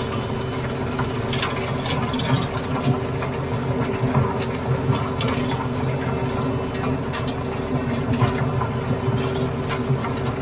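TYM T574 compact tractor's diesel engine running steadily, with scattered light clicks and rattles over the engine note.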